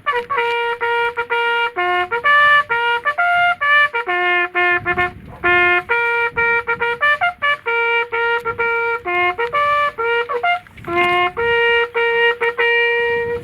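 A solo trumpet playing a quick ceremonial call of short, detached notes that leap between a few bugle-like pitches.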